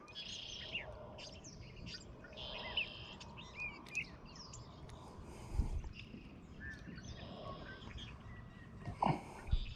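Songbirds chirping and warbling in short, repeated calls, with a couple of soft low bumps about halfway through and near the end.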